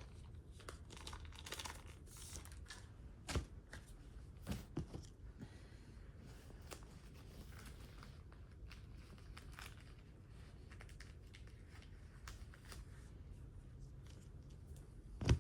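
Blind bag being torn open by hand, its packaging crinkling and tearing faintly, with a few louder crackles about three and a half and four and a half seconds in.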